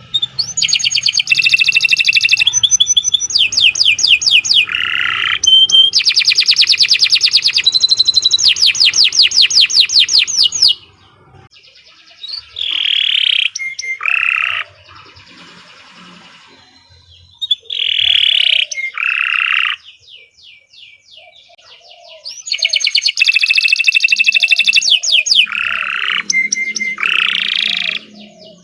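Domestic canary singing a long song of very rapid, high trills. The song pauses about ten seconds in, gives a few shorter buzzy phrases, then returns to fast trills near the end.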